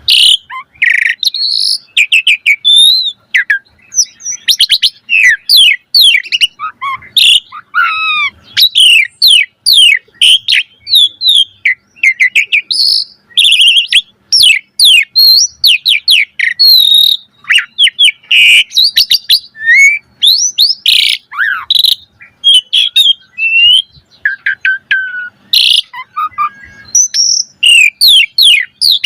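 Asian pied starling (jalak suren) in full song: a fast, varied run of whistles, chirps and rising and falling sliding notes, with almost no pause.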